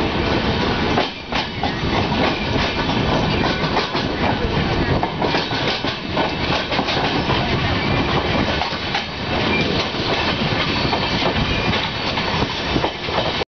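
Train in motion, heard from on board: a steady rumble and rush with the wheels clattering over rail joints. It cuts off abruptly near the end.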